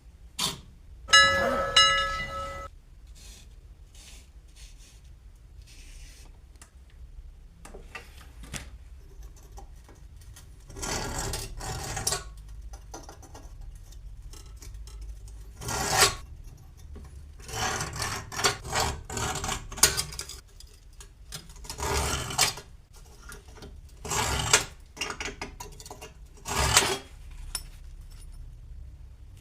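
A hand tool scraping on metal in a run of uneven strokes, each under a second long, in groups with pauses between them. About a second in, a short ringing tone with several pitches sounds for about a second and a half.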